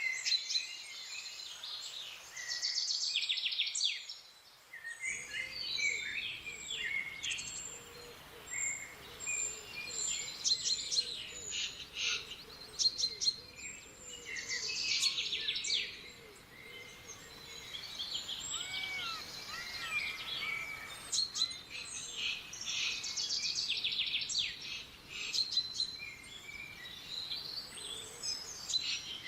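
Several wild songbirds calling and singing over one another: overlapping chirps, rapid trills and short whistled phrases. A low, even background noise comes in about five seconds in.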